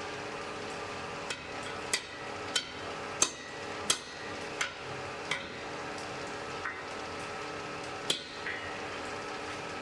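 Blacksmith's hammer blows on an anvil: a run of about eight sharp strikes at an even pace, then a pause and one more, over the steady hum of the forge.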